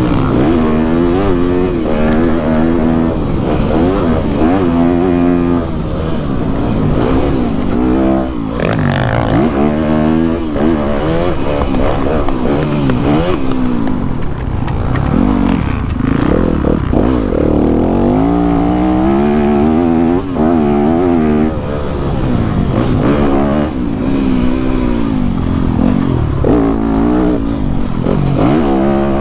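Yamaha YZ250F's four-stroke single-cylinder dirt bike engine being ridden hard, the revs climbing and dropping back again and again as the rider opens and closes the throttle and shifts.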